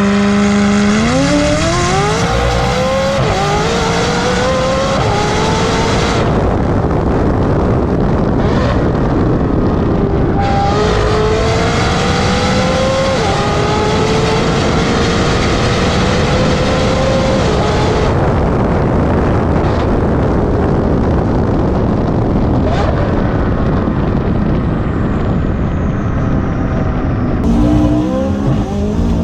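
McLaren 570S twin-turbo V8, tuned and running a RYFT full exhaust with a catless downpipe, accelerating hard through the gears: the engine note climbs steadily and drops at each of several upshifts. Near the end the note falls and turns choppier as the car slows.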